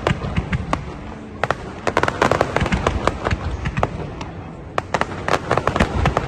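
Fireworks going off in a rapid string of sharp bangs and crackles. They come thickest about a second and a half in and again near the end, with a short lull between.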